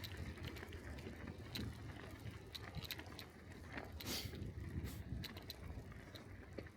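Bicycle riding over a snowy street: a steady low rumble of tyres rolling, with scattered light clicks and rattles from the bike and a brief hiss about four seconds in.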